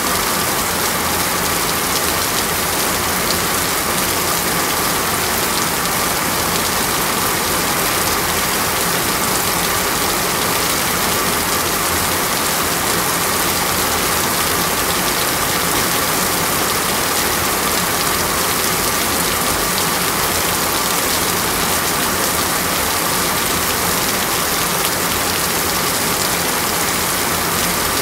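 Heavy rain falling steadily, drops splashing on a flooded street.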